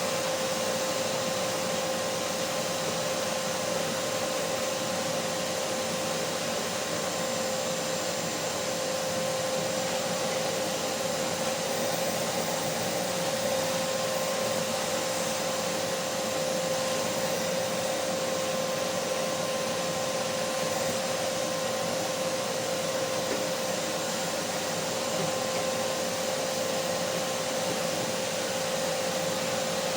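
Vacuum cleaner motor running steadily, a constant rushing air noise with a steady whine held on one pitch.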